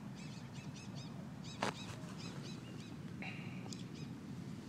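Small birds chirping in quick groups of short arched notes, with a sharp click about a second and a half in and a brief level whistle a little after three seconds, over a steady low background noise.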